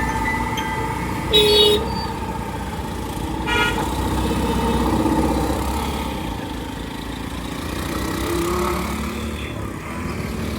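Road traffic noise heard from a moving scooter, with vehicle horns honking: a short honk about a second and a half in and another about three and a half seconds in.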